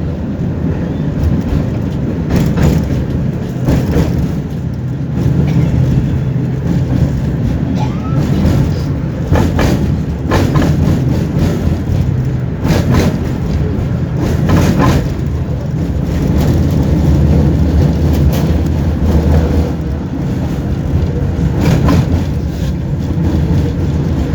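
Tram running between stops, heard inside the car: a steady low rumble of the running gear, with knocks and rattles every few seconds.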